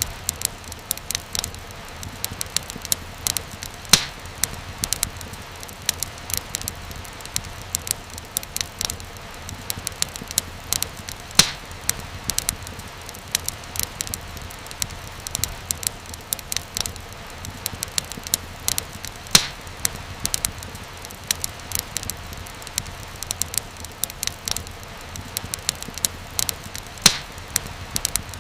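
Wood fire burning in a fireplace: steady irregular crackling with a few louder pops spaced several seconds apart, over a low rumble.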